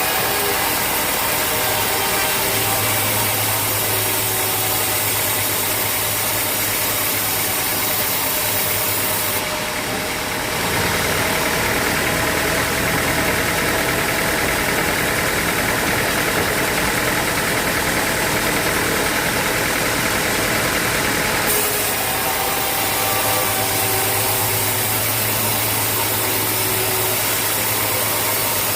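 Sawmill machinery running steadily with a loud, even machine noise. A brighter, higher-pitched band of sound comes in about eleven seconds in and drops out about twenty-one seconds in, and a low hum is there only before and after it.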